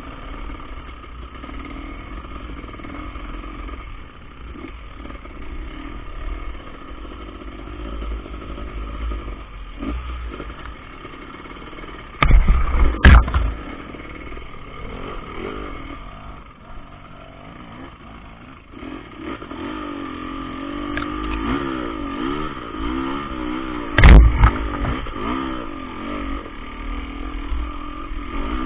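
KTM enduro dirt bike engine running off-road, its pitch rising and falling with the throttle. Two loud thumps cut through it, about twelve seconds in and again about twenty-four seconds in.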